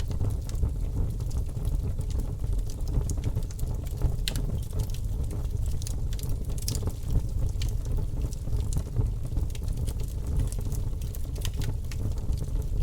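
Wood fire in a fireplace crackling: scattered sharp pops and clicks over a steady low rumble.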